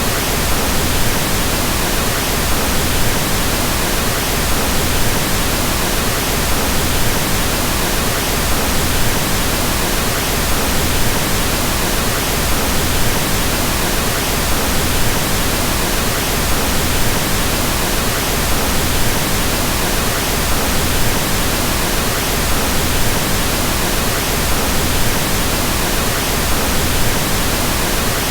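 Pink noise: a steady, even hiss with more energy in the low frequencies, unchanging throughout.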